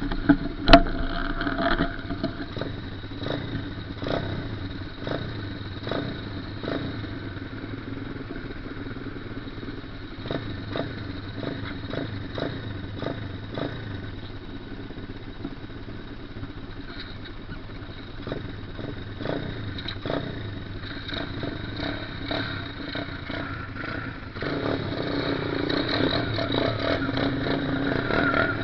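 Small off-road engine running, with frequent knocks and rattles over it. About 24 seconds in the engine gets louder and settles into a steadier drone.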